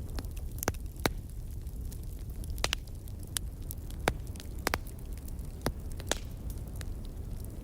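Wood fire crackling: about a dozen sharp, irregular pops over a steady low rumble.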